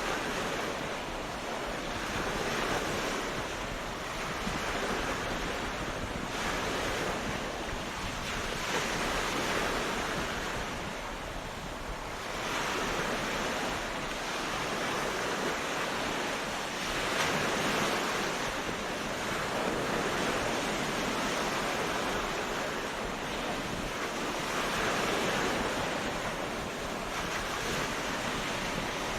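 Sea waves washing onto a beach: a steady surf noise that swells and eases every few seconds as each wave comes in.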